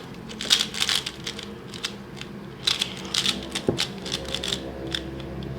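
A Valk 3 3x3 speedcube being turned by hand in quick bursts: rapid plastic clicking and clacking as the layers snap round, a brand-new cube still in need of breaking in.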